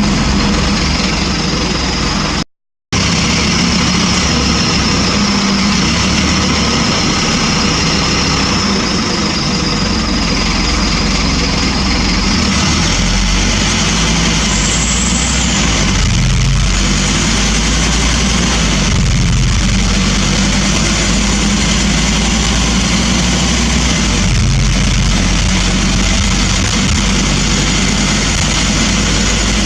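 Scania N230UB single-decker bus running under way, heard from inside the saloon: a steady engine drone whose note shifts several times as the bus pulls away and changes speed. There is a brief cut to silence about two and a half seconds in.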